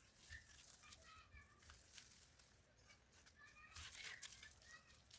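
Faint outdoor ambience with a few short bird calls, the clearest about four seconds in.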